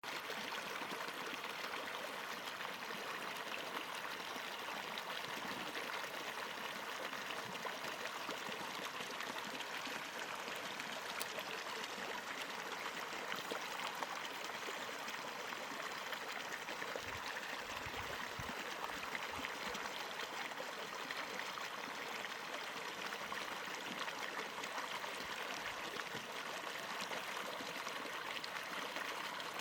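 A shallow, clear stream running over rocks: a steady rush and babble of water, with a few soft low bumps a little past the middle.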